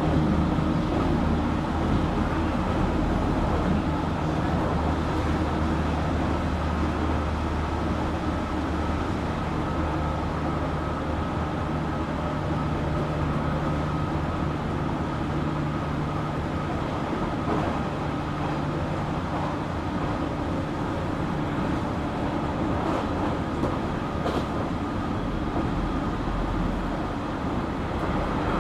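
JR Kyushu 817 series electric train running, heard from inside the car: a steady rumble of wheels on rail with a steady hum of drive tones. This unit makes an unusual running noise that the uploader likens to the Keio 7000 series.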